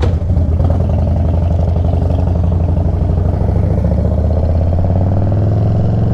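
Motorcycle engine running steadily as the bike rides off, its note rising gradually.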